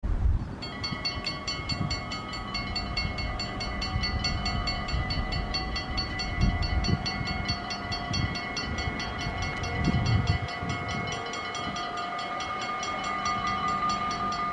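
Dutch automatic level-crossing warning bells ringing rapidly, about five strikes a second, starting about half a second in. Irregular low rumbling runs underneath.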